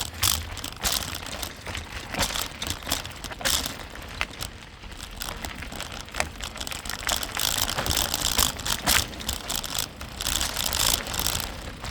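Bicycle ridden over a rough dirt trail: the frame and parts rattle and click over bumps, with the ticking of the rear hub's freewheel ratchet as it coasts.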